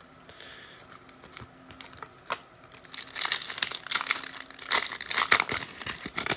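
Foil trading-card pack being torn open and crinkled. It is faint handling for the first few seconds, then dense crinkling from about three seconds in.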